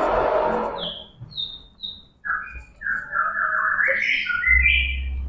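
A bird chirping: three short high chirps falling in pitch, then a run of whistled notes stepping upward. It opens with a short burst of noise, and a low hum comes in near the end.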